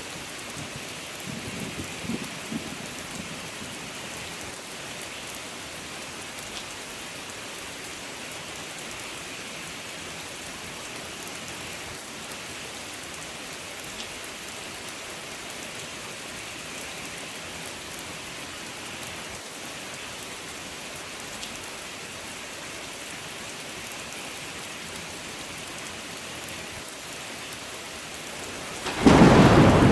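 Steady rain falling. A soft low rumble comes a couple of seconds in, and a loud thunderclap breaks in near the end.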